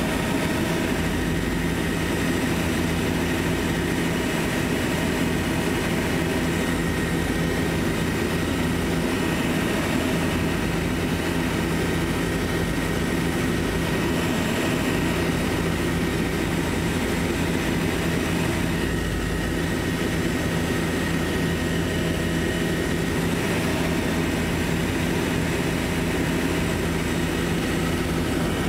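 Helicopter engine and rotor running steadily in flight, heard from inside the cabin, with a constant whine over a low drone.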